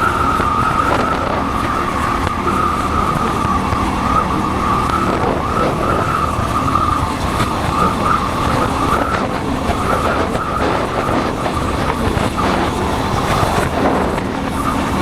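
Motorcycle running on the road, recorded from a helmet-mounted camera, with a steady high whistle-like tone over the engine and rushing noise.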